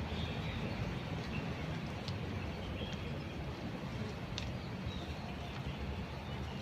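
A steady low rumble with a few faint, short bird chirps scattered through it.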